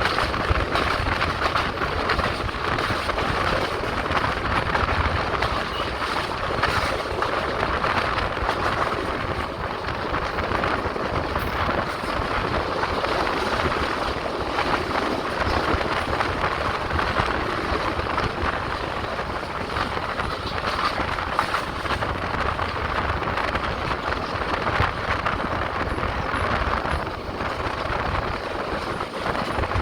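Passenger express train running along the line, a steady rumble and rush of noise with a few faint knocks from the wheels and carriage.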